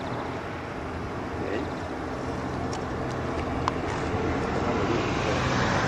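Light propeller aircraft engine running, with wind noise, growing steadily louder over the last few seconds as the aircraft draws closer.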